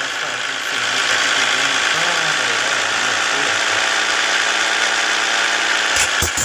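Scania S 450 truck's inline-six diesel engine running steadily, with a few sharp clicks about six seconds in.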